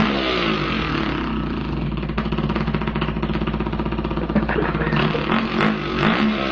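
A man imitating a dirt bike engine with his voice: a buzzing, mouth-made engine note whose pitch sweeps down and up several times, as if revving.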